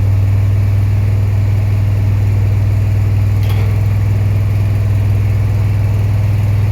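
Ranger engine-driven welder-generator running steadily under a constant load.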